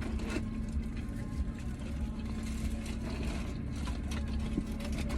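Steady low hum of a car's running engine heard inside the cabin, with scattered small clicks and smacking sounds from eating fried chicken close to the microphone.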